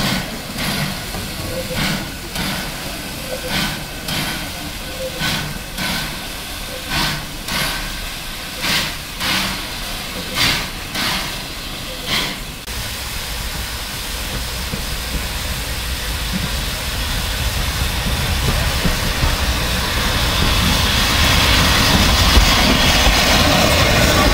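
Steam locomotive working, its exhaust beating evenly about every two-thirds of a second. The beats stop suddenly about halfway through, and a steady rushing, rumbling train noise then grows louder.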